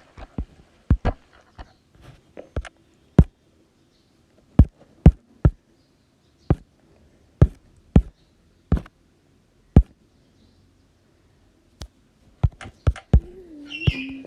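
Sharp knocks and clicks at irregular intervals, roughly one or two a second with pauses of a second or more between some.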